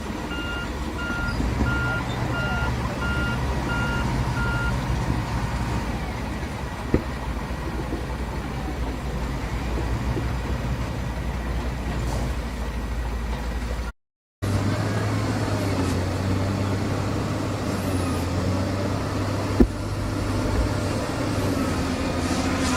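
Heavy diesel construction machinery running steadily, with a reversing alarm beeping at an even pace for the first few seconds. The sound drops out briefly about two-thirds of the way through, then a different engine note carries on.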